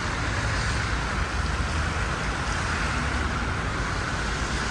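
Steady city street ambience: a continuous hum of road traffic with no distinct events.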